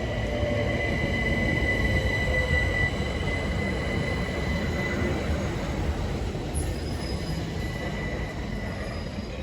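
Southeastern Class 376 Electrostar electric multiple unit moving along the station platform: a steady rumble of wheels on rails with a high, steady whine or squeal over it, slowly easing towards the end.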